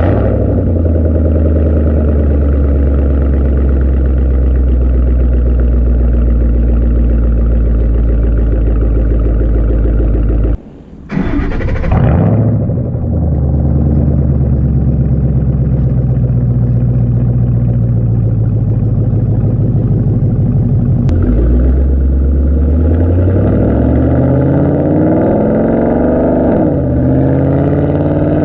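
2014 Ford Mustang GT's 5.0 Coyote V8 through an aftermarket 3-inch exhaust, idling with a deep, steady note. About ten seconds in the sound drops out briefly, then an engine fires with a flare that falls back to idle. Near the end the engine pitch rises and falls a few times.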